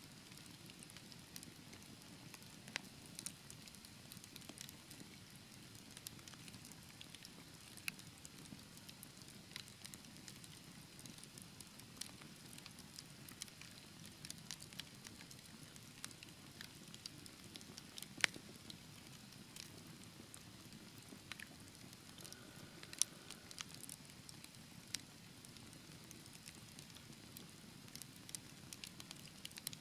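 Wood fire burning in a fireplace: a low steady rumble of the flames with scattered sharp crackles and pops, a few louder ones about 18 and 23 seconds in.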